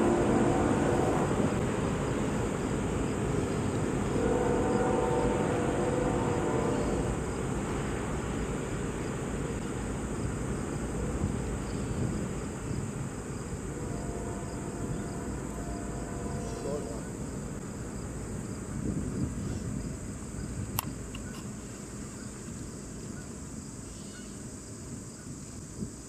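A Union Pacific train rumbling away and slowly fading, with a few pitched rail or wheel tones in the first several seconds. Behind it, a steady high insect chorus runs throughout.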